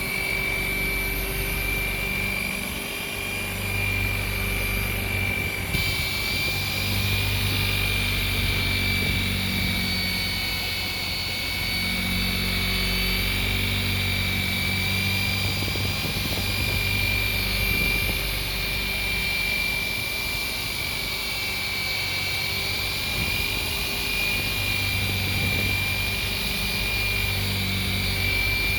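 DeWalt DWP849X rotary buffer running steadily with a buffing pad on boat gelcoat, compounding oxidation off. Its motor whines at a constant pitch while a low rumble swells and fades every few seconds as the pad is worked across the surface.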